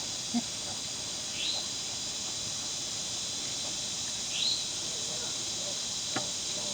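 Steady chorus of night insects, with a short high chirp rising and falling about every three seconds and a brief low grunt early on from the pigs.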